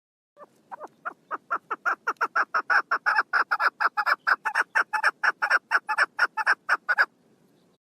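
Female chukar partridge calling: a rapid series of short notes, about four a second, that starts soft and sparse, quickly builds to a steady loud run, and cuts off abruptly near the end.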